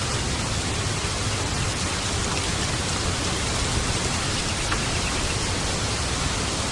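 Steady rain falling, an even hiss with a few faint drop ticks; no thunderclap.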